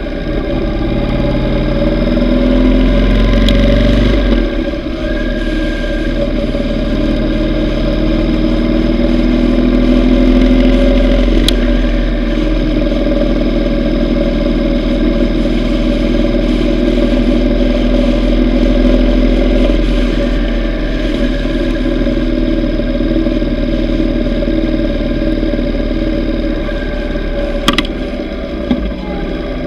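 Yamaha V Star 950's V-twin engine running on the road. It rises in pitch over the first few seconds, drops about four seconds in, then holds a steady cruise.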